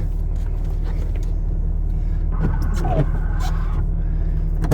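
Vehicle engine running with a steady low rumble, heard from inside the cab, with a short faint higher-pitched sound about two and a half seconds in.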